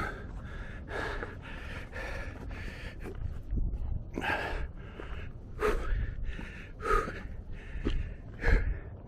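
A man breathing hard and fast from the exertion of a steep climb, heavy breaths about once a second, over a low rumble.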